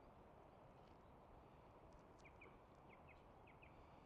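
Near silence: faint outdoor background hiss with three pairs of short, faint bird chirps about halfway through.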